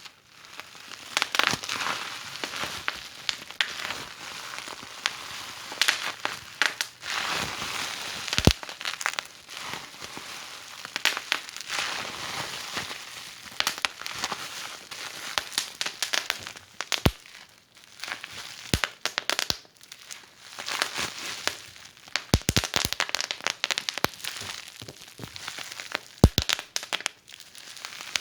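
Wood fire crackling in a fireplace: a steady hiss of burning with dense small crackles, broken by sharp pops from the logs several times.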